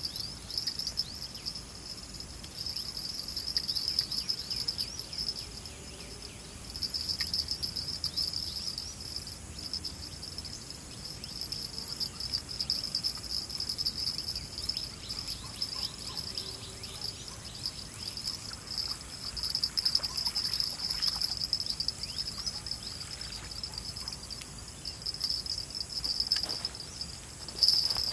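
Insects, crickets among them, chirping in a steady high-pitched trill that pulses slightly, with a few faint scattered ticks.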